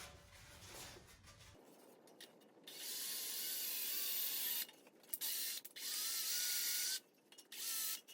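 Electric drill boring across a shovel's socket and wooden handle. It runs in several bursts with short stops between, and the motor's whine rises as a burst starts.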